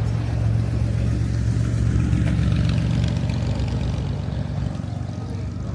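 A car engine running close by with a steady low hum, easing off a little in the second half.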